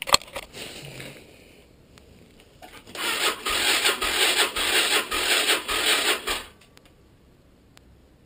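Derbi 125cc motorcycle engine being turned over for a cold start: a rasping mechanical churning with a slow pulsing beat for about three and a half seconds, starting about three seconds in and stopping without the engine catching.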